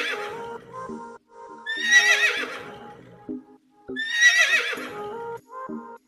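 An animal's high, wavering call, heard three times about two seconds apart, over background music.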